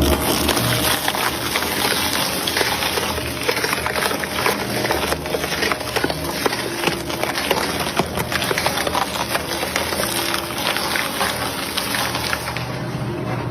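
Shredder (crusher) machine running, its motor humming steadily under a dense crackle of material being crushed and splintered.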